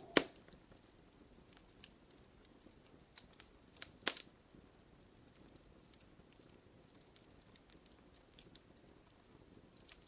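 Wood fire crackling in a fireplace: sparse small ticks over a faint hiss, with two louder pops, one just after the start and one about four seconds in.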